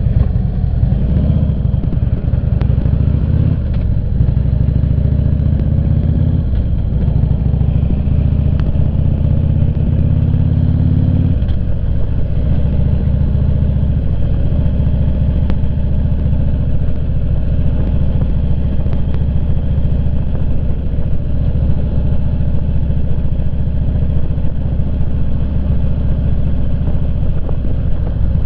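Motorcycle engine under way, its pitch climbing twice as it accelerates, then dropping sharply about a third of the way through and holding a steady cruise.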